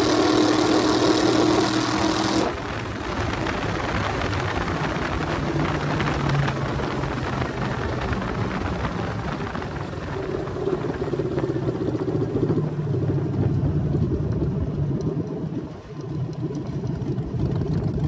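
LS V8 engine of a drag altered running: loud and high for about the first two and a half seconds, then it drops abruptly to a lower, uneven note that rises and falls.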